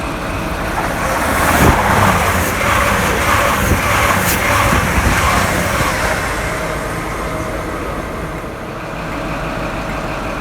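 Class 222 Meridian diesel multiple unit passing through the station, growing louder to a peak with a repeating clatter from about two to six seconds in, then fading away over a steady low hum.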